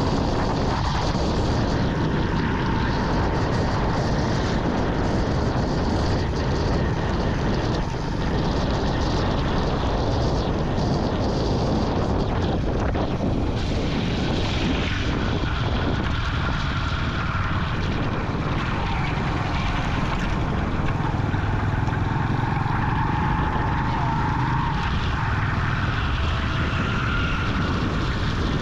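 Vintage Yamaha motorcycle engine running steadily under way, mixed with wind and road noise.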